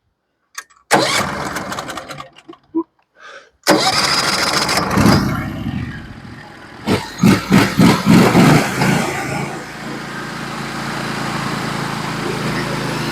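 Norwood HD36v2 sawmill's gas engine starting: cranking from about a second in, catching with a sudden loud start at about four seconds, running unevenly for a few seconds, then settling into a steady run.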